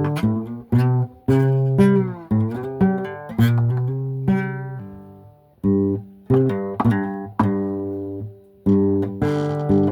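Four-string acoustic guitar in open G tuning, played flat across the lap: plucked notes and chords, several sliding up and down in pitch, with a short fade about five seconds in.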